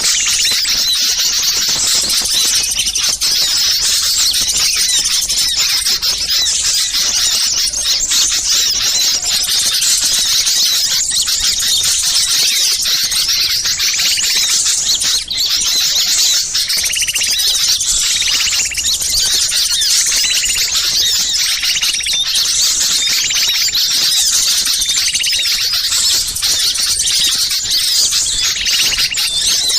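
Dense, unbroken high-pitched chatter of many small songbirds calling at once: a bird-trapping lure recording of small birds in agitated, noisy calling, the kind played to draw wild birds in. About halfway through, short repeated lower notes join the chatter.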